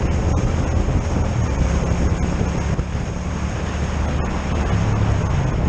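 Wind rushing over a microphone on a moving motorcycle, with the engine droning steadily underneath and its pitch shifting slightly a couple of times.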